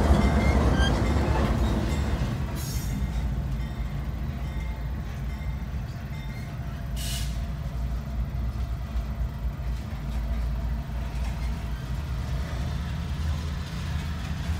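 Freight train of covered hopper cars rolling past. For the first two seconds or so it is heard trackside as the trailing locomotive and first cars go by. After an abrupt change about two and a half seconds in, it is a steady low rumble heard muffled from inside a car at the grade crossing.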